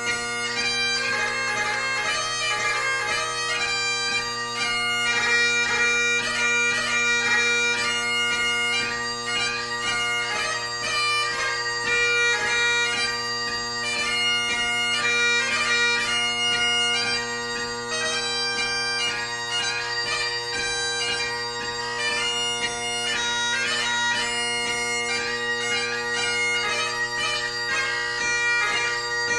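Great Highland bagpipe played solo. Steady drones sound under a chanter melody full of quick grace-note ornaments, in a light-music (ceol beag) competition tune.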